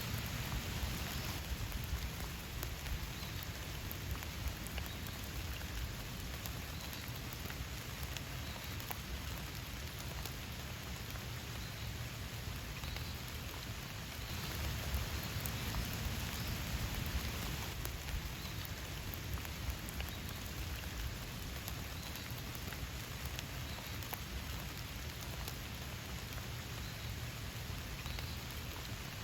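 Steady rain falling, with many individual drops pattering. It grows heavier briefly at the start and again about halfway through.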